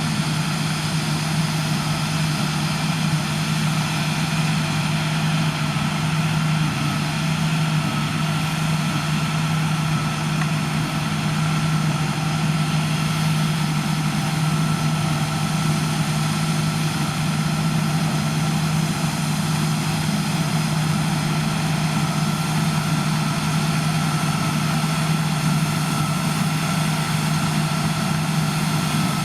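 Heavy farm machinery's diesel engine running at a constant speed: an unchanging low engine drone with a steady high whine above it.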